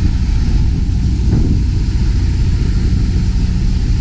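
Semi truck's diesel engine idling steadily, with one brief knock about a second in.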